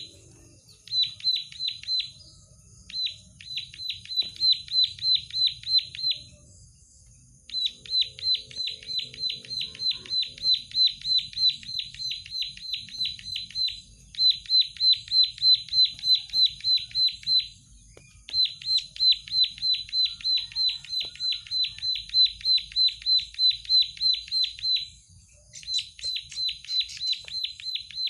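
Plain prinia (prenjak sawah) singing vigorously: long runs of rapid, evenly repeated high notes, about four or five a second, in series of several seconds broken by short pauses.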